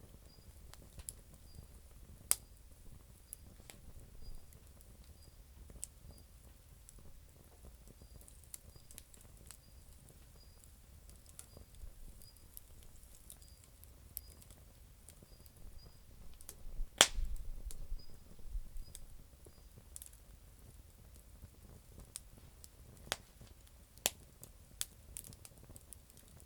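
Campfire of damp firewood burning, with scattered sharp crackles and pops over a faint background. One pop about two-thirds of the way in is much louder than the rest.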